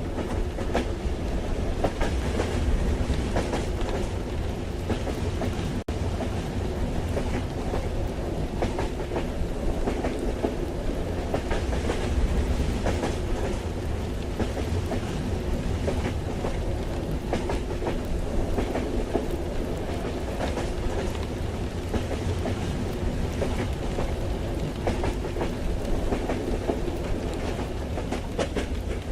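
Train carriage ambience: a steady low rumble of the moving train with wheels clattering over the rails, and rain pattering against it.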